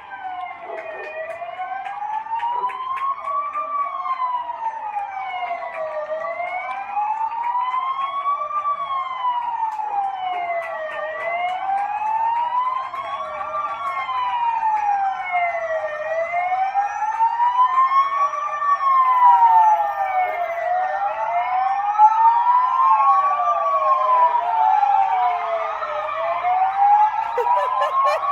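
Emergency vehicle sirens wailing, slowly rising and falling in pitch about every five seconds and gradually growing louder. Several seconds before the end a second siren sweeps out of step with the first.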